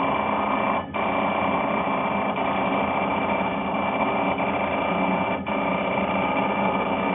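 Automatic balancing machine for subway brake discs running, a loud, steady mechanical noise with a high steady whine in it. It breaks off briefly about a second in and again about five and a half seconds in.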